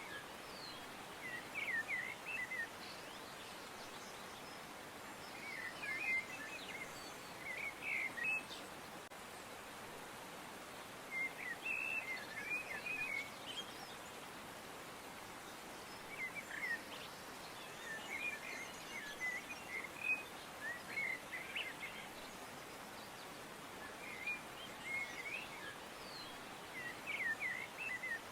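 Small birds chirping in short clusters of quick notes every few seconds, over a steady background hiss.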